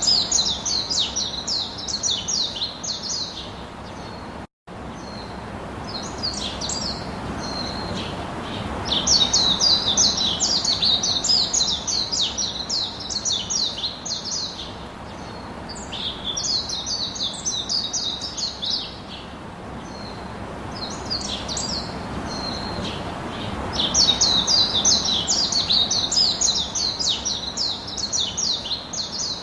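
Birds singing in bouts of fast, high chirps several seconds long, over a steady background rush. The sound drops out completely for a moment about four seconds in.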